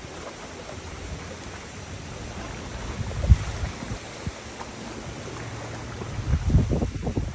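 Wind buffeting the microphone over a steady rushing hiss, with stronger low gusts about three seconds in and again near the end.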